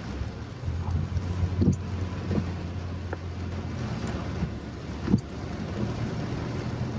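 Steady low rumble of a car on the move in heavy rain, with a few short knocks, the sharpest about five seconds in.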